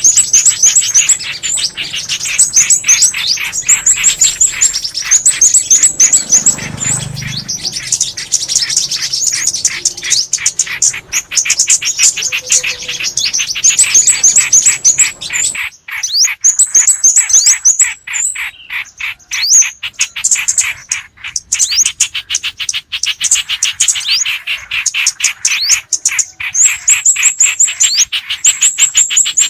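Recorded songbird calls in a dense mix: short high chirps in quick repeated runs with short falling notes, going on without a break. A faint low hum underneath stops suddenly about halfway through.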